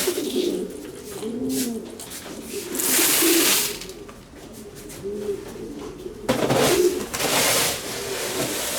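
Pigeons cooing softly throughout, with two loud rustling stretches of dry seed mix being poured or stirred in a bucket, about 3 seconds in and again from about 6 to 8 seconds in.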